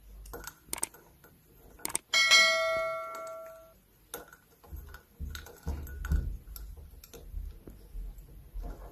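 A small bell struck once, ringing out and dying away over about a second and a half, amid scattered light clicks and taps.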